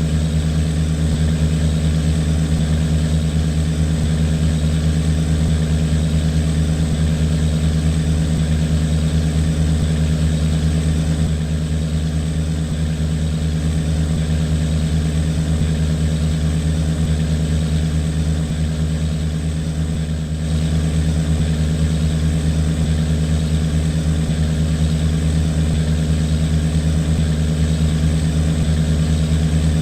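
Large boat diesel engine running steadily under way, a deep even drone with a slight dip in level partway through.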